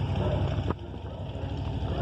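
KTM motorcycle engine running steadily, with a sharp click about two-thirds of a second in, after which the sound is a little quieter.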